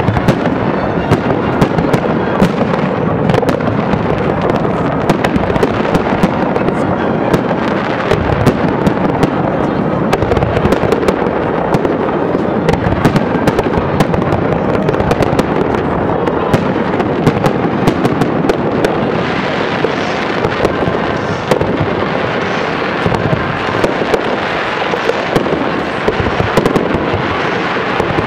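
Aerial firework shells bursting one after another in a dense, continuous barrage of overlapping bangs.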